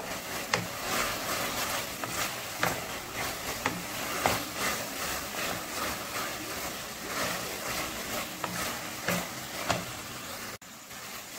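Onion and capsicum frying in a thick chilli sauce in a non-stick kadai, sizzling steadily, while a spatula stirs and scrapes through it with irregular light knocks against the pan. The sauce is being cooked down until the masala is done.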